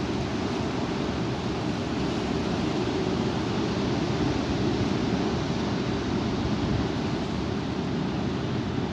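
Strong wind blowing: a steady rushing noise, heaviest in the low end, with gusts rumbling on the microphone.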